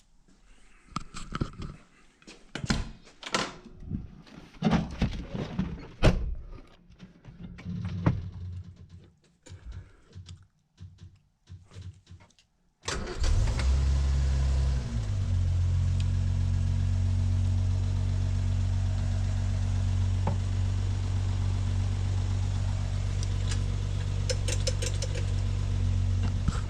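A series of irregular clunks and clicks, then about 13 seconds in a rebuilt six-cylinder engine of a 1967 Land Rover Series IIA 109 fires on a cold start and runs, settling within about two seconds to a steady idle. The engine had not been started in weeks.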